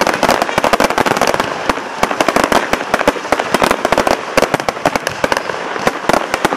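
Fireworks going off in quick succession: a dense, unbroken run of sharp cracks and bangs, many a second.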